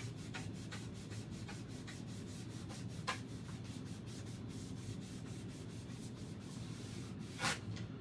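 Wet melamine foam eraser scrubbed back and forth across a chalkboard surface, a few strokes a second, rubbing off dried chalk paste. Near the end comes a short, sharp chalkboard screech from a fingernail catching on the board.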